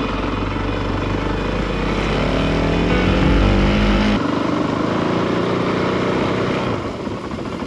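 Honda CRF450RL's single-cylinder four-stroke engine running under way, its pitch climbing for about four seconds, then dropping sharply at a gear change and pulling again.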